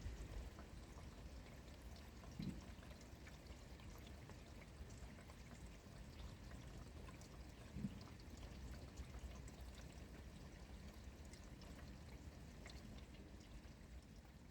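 Steady rain, heard as an even hiss with scattered faint drip ticks and a couple of soft low thumps.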